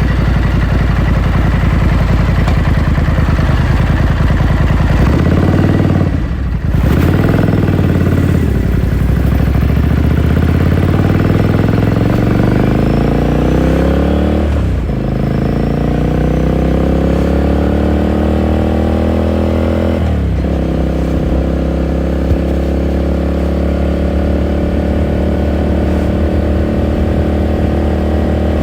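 2018 Ducati Scrambler Sixty2's air-cooled 399 cc L-twin idling, then pulling away and accelerating through the gears. Its pitch rises in three long pulls with a brief dip at each shift, about 6, 15 and 20 seconds in, then it holds steady at a cruise.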